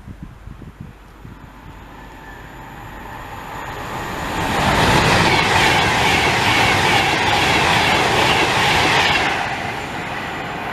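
A train passing through a station at speed: its noise builds over a few seconds, is loud for about five seconds with wheel-on-rail rumble and hiss, then drops back as it goes by.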